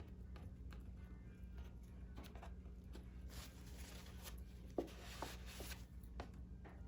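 Faint rustling and scraping as a glued tab is worked loose from Torah parchment, with a few small clicks in the middle, over a steady low hum.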